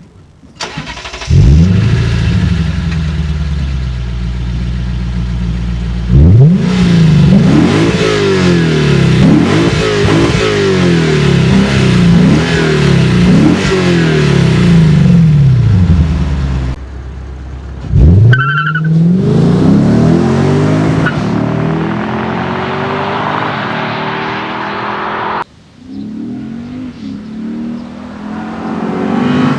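Lexus IS-F's 5.0-litre V8 starting with a flare of revs and settling to idle, then blipped repeatedly, each rev rising and falling back. It starts again with another flare about 18 seconds in, with a short beep just after, and runs on; a quieter stretch of engine sound follows a sudden cut near the end.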